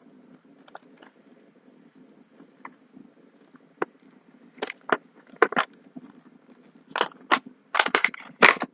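Handling of a small diecast pull-back toy truck: scattered light clicks, taps and scrapes, sparse at first and coming in quick clusters from about seven seconds in.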